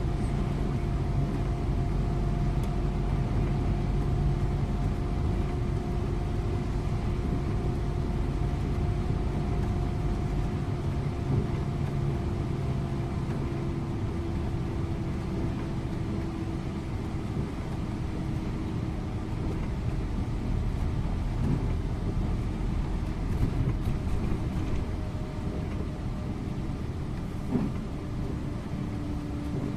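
Scania InterLink bus's diesel engine running under way at steady cruise with tyre and road noise, its note easing slowly lower through the stretch.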